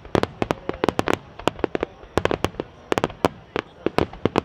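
Aerial fireworks going off in quick, irregular succession: many sharp bangs and pops every second, overlapping one another.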